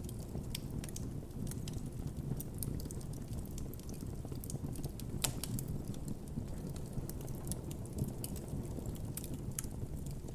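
Wood campfire burning with a steady low rush of flame and frequent irregular sharp crackles, with one louder pop about five seconds in.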